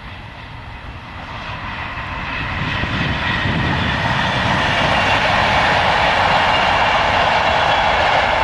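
Virgin Trains Class 390 Pendolino electric express train approaching and passing at speed: a rushing noise of wheels on rail and air with a thin high whine in it, swelling over the first few seconds, then holding steady and loud.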